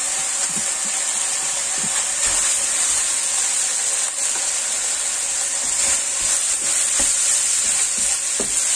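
Minced pork and chopped preserved vegetable sizzling in a hot nonstick pan, a steady frying hiss, while a spatula stirs and scrapes through the mixture with faint ticks against the pan.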